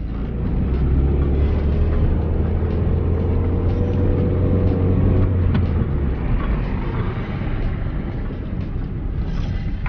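Car engine heard from inside the cabin, pulling in first gear as the car moves off slowly: it builds up over the first second, holds a steady note, then eases off about five and a half seconds in.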